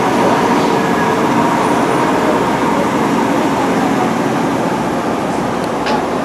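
JR West 103 series electric train running, a steady rumble of wheels and motors.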